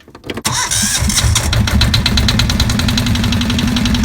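1972 Yanmar marine diesel engine starting about half a second in and settling into a steady run with a regular knock, about eight or nine beats a second. It is being tested after its idle speed, set too low and making it stall, was turned up.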